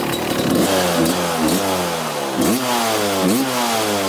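1995 Kawasaki KX250's single-cylinder two-stroke engine, freshly running again after sitting, idling and then revved in four quick throttle blips, each rising sharply in pitch and falling back slowly to idle.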